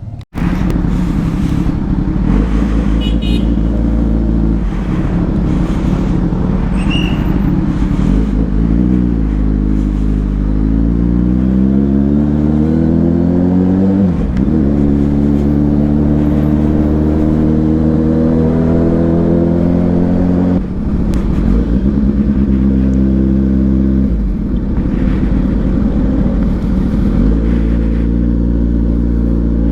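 2022 Kawasaki Ninja 1000SX's inline-four engine through an aftermarket AR exhaust, heard from the bike while riding. It runs steadily, rises in pitch under acceleration for about five seconds, then drops sharply at a gear change and settles into steady running, with another brief break about two-thirds of the way through.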